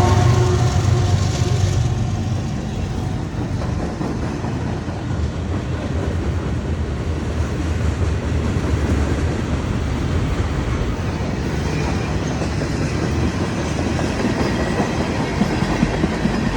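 Freight train cars rolling past close by, a steady low rumble with wheels clattering over the rail joints.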